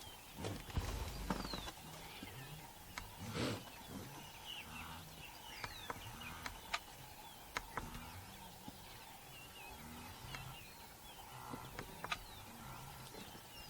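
Bush ambience with many small birds chirping throughout, plus scattered sharp clicks and a louder rustle about three and a half seconds in.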